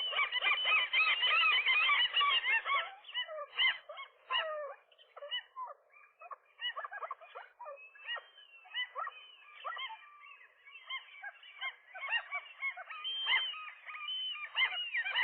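Several gulls calling harshly and continuously, many calls overlapping, loudest in the first few seconds, easing briefly in the middle and then rising again: the noise of gulls fighting over a nest.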